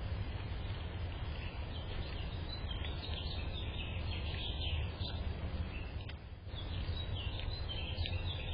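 Small birds chirping: short high calls come in a spell a few seconds in and again near the end. Under them runs a steady low background rumble.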